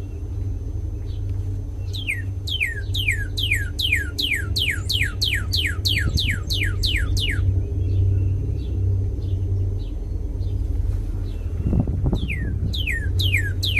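Northern cardinal singing: a fast series of clear downslurred whistles, about three a second, in a run of some five seconds, then a pause with a few faint short notes, and a new run starting near the end. A steady low hum runs underneath.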